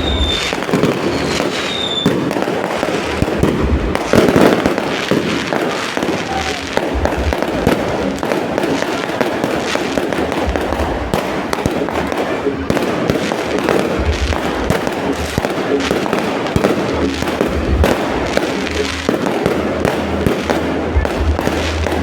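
Fireworks going off without a break: a dense, continuous barrage of bangs and crackling.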